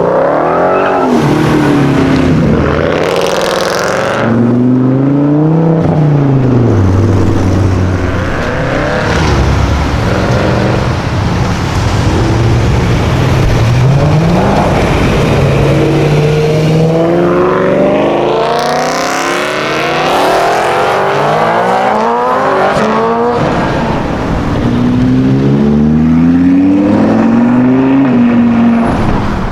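Sports car engines accelerating hard, the pitch climbing and then dropping at each gear change several times over. Loud pass-bys come about three seconds and eighteen seconds in.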